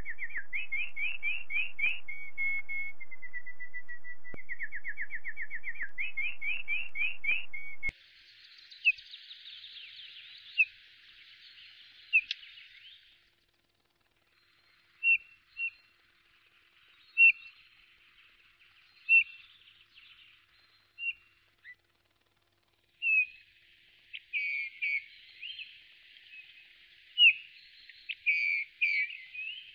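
Wild birds singing: a loud run of quick rising whistled notes for the first eight seconds, then, after an abrupt change, other birds giving short scattered chirps over a faint hiss.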